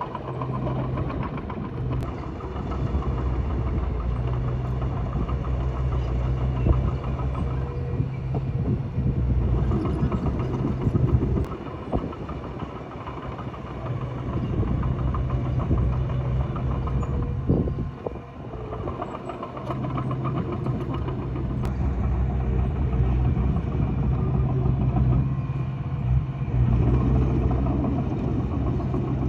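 Diesel engine of heavy earthmoving machinery running under varying load, its sound dipping and swelling. There are a few sharp clicks and a knock about two-thirds of the way through.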